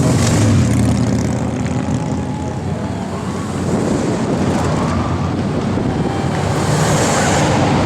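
Motorcycle engines running together, loud and steady, with pitch shifting up and down as the bikes rev.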